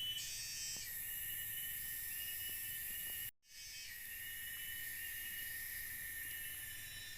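Night chorus of forest insects such as crickets and cicadas: a steady, high-pitched layered trilling. It cuts out completely for a moment about halfway through, then carries on.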